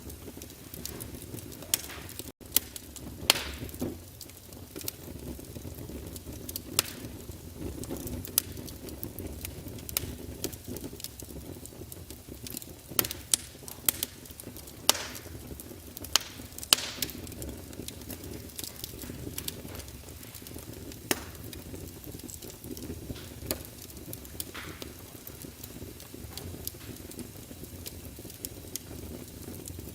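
Wood fire burning in a fireplace: a steady low rumble of the flames with frequent crackles and sharp pops at irregular intervals, a few louder snaps scattered through.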